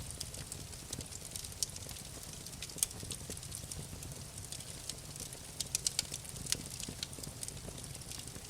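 Wood fire crackling in a fireplace: irregular sharp pops and snaps over a low steady rumble, with a quick run of louder pops a little past the middle.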